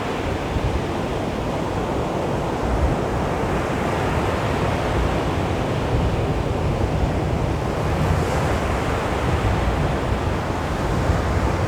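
Calm sea waves washing onto a beach: a steady, even surf wash with no single big crash.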